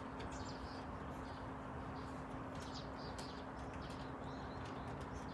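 Quiet outdoor ambience: faint, scattered bird chirps over a steady low hum and background hiss.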